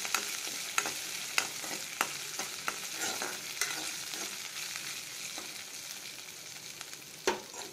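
Green chillies and curry leaves sizzling in hot coconut oil in an aluminium kadai, stirred with a steel spoon that scrapes the pan and now and then knocks against the metal. The sizzle slowly dies down, with one louder knock near the end.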